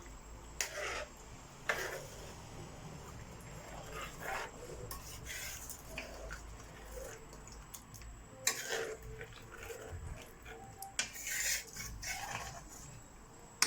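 Low kitchen handling sounds: a scattered handful of short scrapes and rubs, about a third of a second each, over a faint steady high whine.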